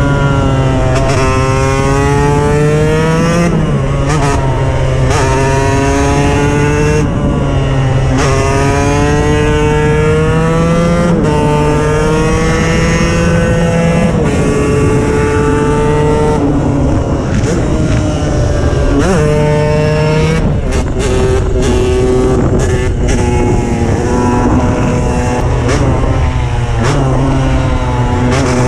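KTM 125 EXC single-cylinder two-stroke engine under hard acceleration, its pitch climbing through the revs and dropping sharply at each gear change, several times over. About two-thirds of the way through the throttle is chopped in a few quick cuts before it pulls steadily again.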